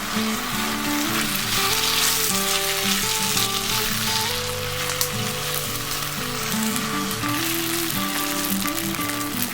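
Food frying with a steady sizzle over the fire, with background music carrying a simple stepped melody over it.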